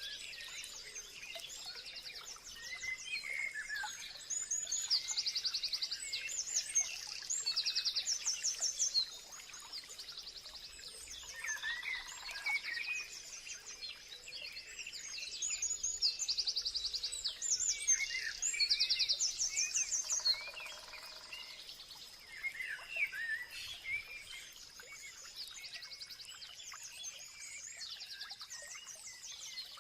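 Several songbirds singing and chirping together, with many rapid high trills repeated every second or two among shorter chirps.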